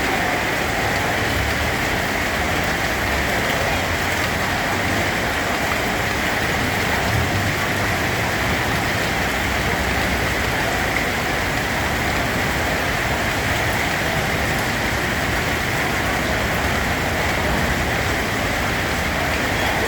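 Steady rain falling on a surface, an even hiss of drops with no breaks.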